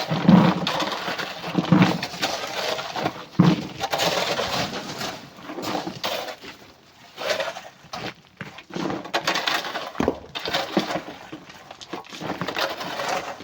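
Chunks of rock and coral clattering and grinding as they are loaded, with heavy knocks right at the start, about two seconds in and about three and a half seconds in, then continuous irregular rattling and scraping.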